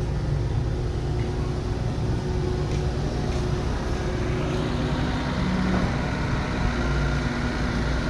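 Heavy construction machinery with diesel engines running steadily, a deep continuous rumble with engine tones that shift slightly in pitch.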